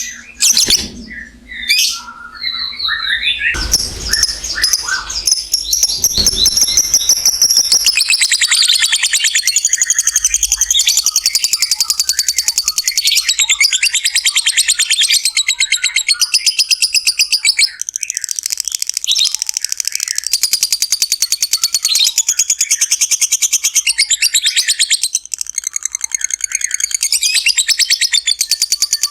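Lovebird giving its long 'ngekek' chatter, a very rapid run of high-pitched notes that goes on for about twenty seconds with only brief breaks. It starts after a few seconds of separate chirps.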